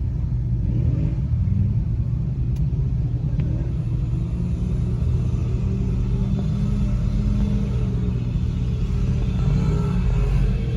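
Truck engine running steadily with a low rumble, swelling slightly now and then.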